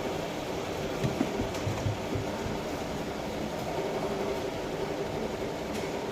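A steady mechanical hum with a few light knocks about a second or two in.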